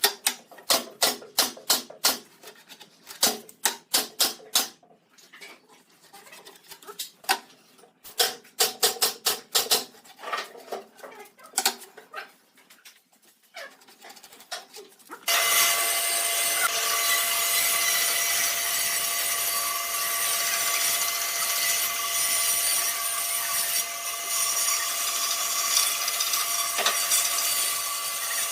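Runs of quick hand-tool strokes on wood, several a second with pauses between the runs. About halfway through, a power tool starts suddenly and runs steadily with a whine.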